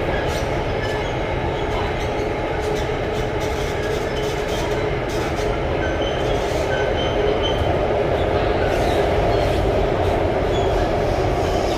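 Alstom Metropolis C751A metro train heard from inside the car while running: a steady rumble of the wheels on the rail with a constant hum, growing slightly louder in the second half.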